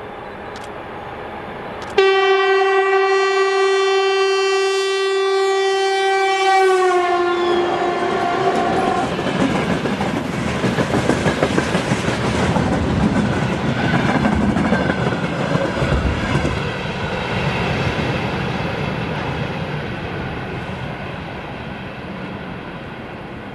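A 2TE116U diesel locomotive sounds a long horn blast about two seconds in, its pitch dropping as it passes. Then the freight train rushes by, its wheels clacking over the rail joints, and the noise slowly fades toward the end.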